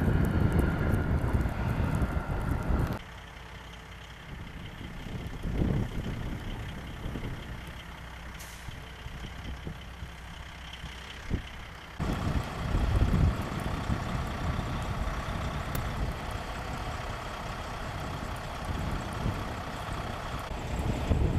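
Vehicle and truck engine noise, changing abruptly about three seconds in and again about twelve seconds in, quieter in the middle stretch.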